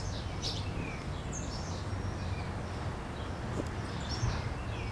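Scattered short, high bird chirps over a steady low rumble of outdoor background noise.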